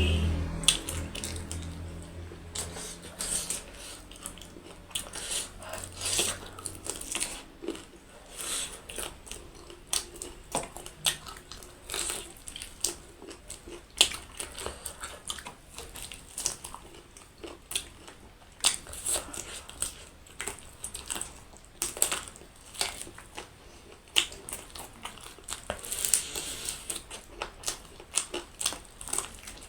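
Close-up eating sounds: irregular crunchy bites and chewing, with wet mouth clicks, several crunches a second at times.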